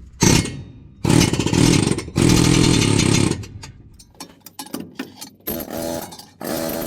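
A power tool run in two bursts of about a second each, followed by scattered clinks and knocks of metal, then a steady whirr starting near the end.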